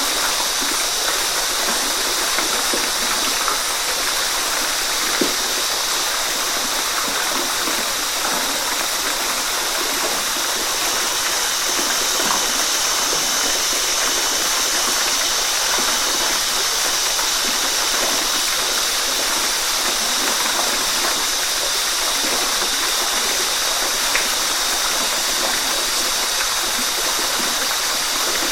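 Waterfall: a steady, even rush of falling water, mostly hiss, with small splashes here and there and no change over the whole stretch.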